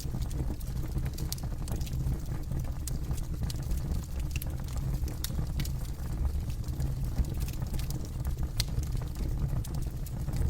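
Campfire burning, with irregular sharp pops and crackles from the wood over a steady low rumble of the flames.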